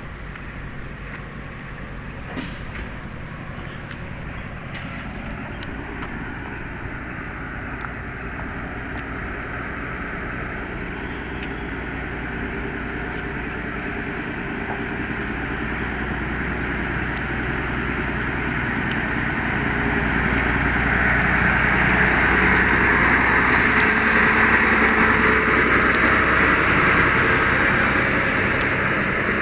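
Heavy truck's diesel engine running, growing steadily louder over about twenty seconds as it draws near, loudest near the end.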